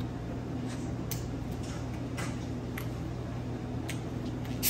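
Quiet eating sounds: scattered light crunches and clicks of chewing fried food over a steady low room hum.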